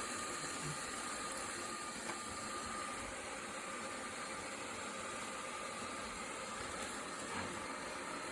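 Roborock Q7B+ robot vacuum running, a steady whirring motor noise with a faint thin whine held at one pitch.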